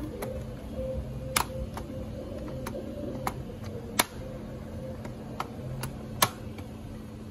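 Scattered sharp clicks and taps of hands and small tools working on the parts of an opened laptop, about eight at uneven intervals. A steady low hum runs under them.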